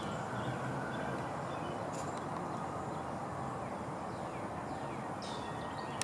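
Steady low background rumble with a few short, falling bird chirps heard over it, one near the start, a couple around two seconds in, and more near the end.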